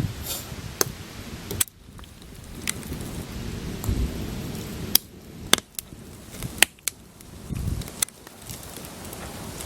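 Campfire of burning firewood crackling, with sharp irregular pops from the wood, about seven in a few seconds, over a steady low rumble.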